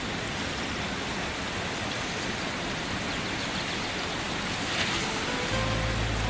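Steady hiss of water, with low held music tones coming in about five and a half seconds in.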